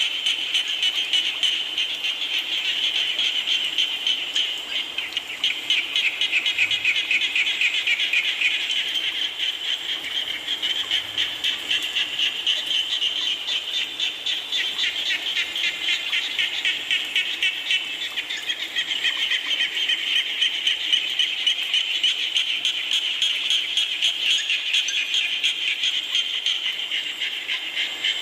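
Chorus of many frogs calling together in rapid pulsed trills, dense and unbroken, swelling and easing a little as it goes.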